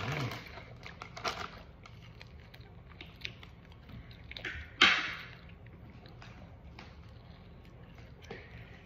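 A person chewing and biting into a hand-held piece of steak, with scattered wet mouth clicks and smacks. One sharper, louder noise comes about five seconds in.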